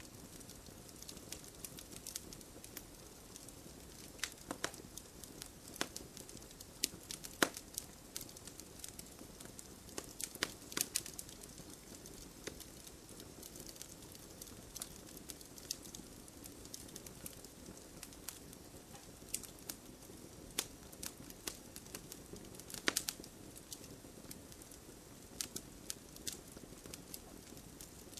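Campfire crackling: irregular sharp pops and snaps of burning wood over a low, steady rush of the flames. The loudest pops come about seven seconds in and in a quick cluster around twenty-three seconds in.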